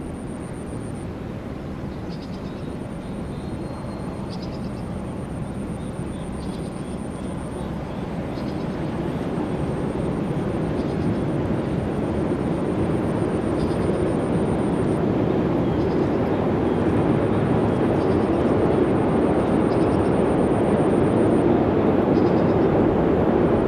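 Steady rumbling noise of a train running, growing gradually louder.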